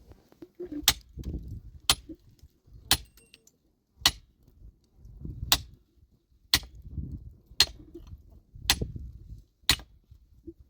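A metal tool, such as a pickaxe or hammer, striking rock in a steady rhythm, about one sharp, ringing blow a second with a short gap in the middle, as stone is broken up. Dull scraping and knocking between the blows.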